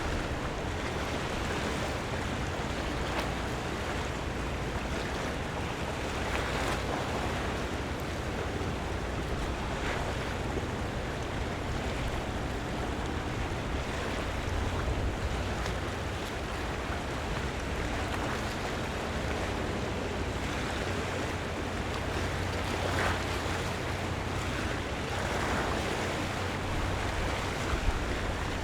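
Harbour seawater washing and splashing against the waterfront in a steady wash, with brief louder splashes every few seconds. A steady low rumble runs underneath.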